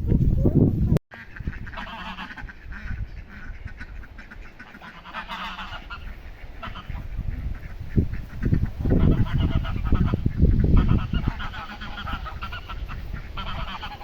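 Birds calling in repeated bursts of a second or two, with a low rumble beneath them. A louder low rumble at the start cuts off abruptly about a second in.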